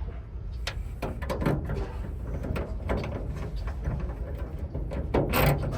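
Clicks, knocks and clatter of metal parts and tools being handled inside a van's side door while a lock and its bolts are fitted, the loudest clatter a little after five seconds in, over a steady low rumble.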